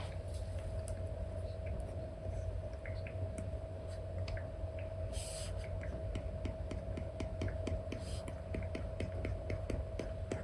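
Apple Pencil tip with an Elecom nib tapping and stroking on an iPad screen under a paper-like film: light clicks, turning into a quick run of taps, about four or five a second, in the second half, with a brief scratchy stroke about five seconds in. A steady low hum runs underneath.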